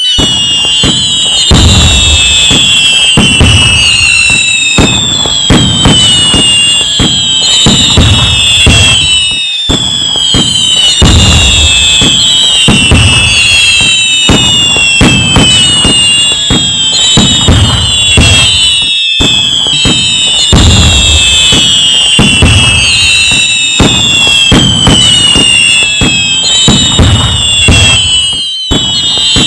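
A dense, loud fireworks barrage: many overlapping whistles that each fall in pitch over about a second, over low booms and crackling. The same stretch repeats about every ten seconds, with a brief gap at each join.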